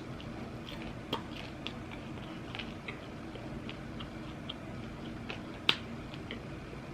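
Eating sounds close to the microphone: crunching chews of crispy fried pork belly (lechon kawali) with scattered small clicks, one sharper click about a second in and a louder one near the end.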